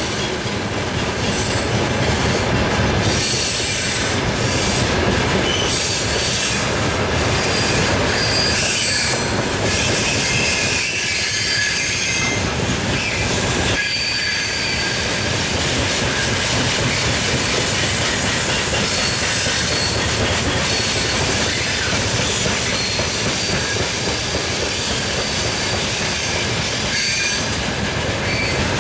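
A freight train of open gondola wagons rolling past, with steady wheel rumble and clatter over the rail joints. Short high-pitched wheel squeals come and go throughout.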